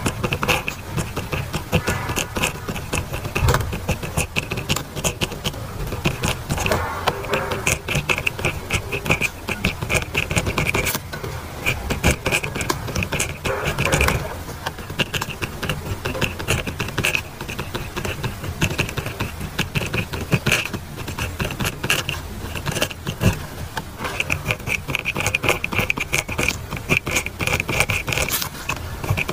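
Pen nib scratching on paper during continuous handwriting: a dense run of short scratching strokes with brief pauses between words.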